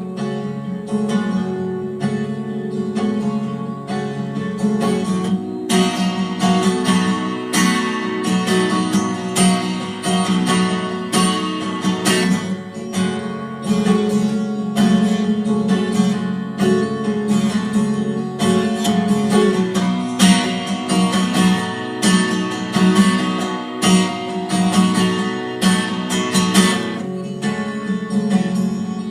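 Instrumental break of a song: acoustic guitar strummed and picked, with no singing. The playing grows fuller and brighter about six seconds in.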